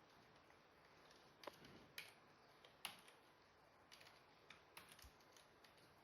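Near silence with a few faint, scattered clicks of typing on a computer keyboard.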